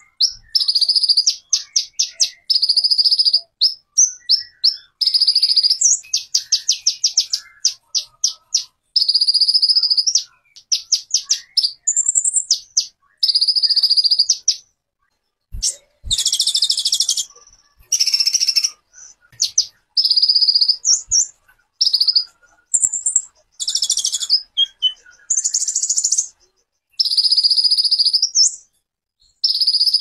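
A songbird singing loud, high-pitched phrases of rapid trills and held whistled notes, each phrase a second or two long with short pauses between.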